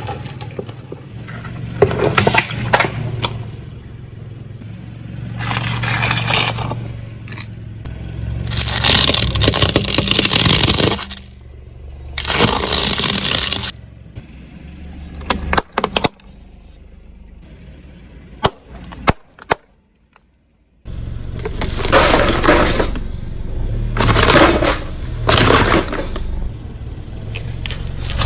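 A car tyre crushing brittle objects: repeated bursts of cracking and crunching with sharp snaps between them, over the low hum of the car's engine. The sound drops out briefly about twenty seconds in.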